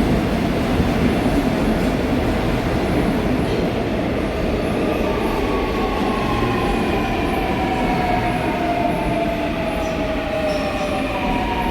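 Seoul Subway Line 4 electric train pulling into the station: a steady heavy rumble of wheels on rail, joined from about five seconds in by a motor whine in several tones that falls steadily in pitch as the train brakes.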